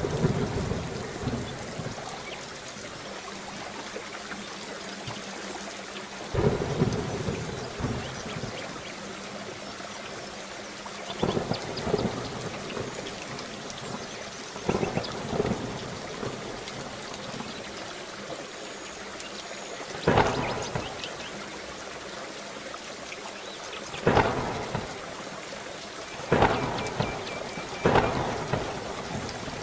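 Steady rain with repeated sharp, crackling thunderclaps every few seconds, each dying away within a second or two.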